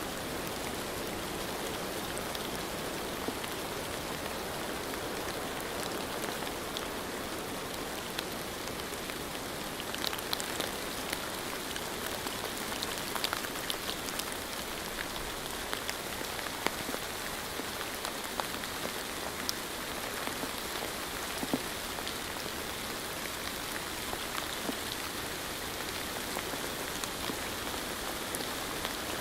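Steady rain falling, an even hiss with scattered sharper drip and drop taps.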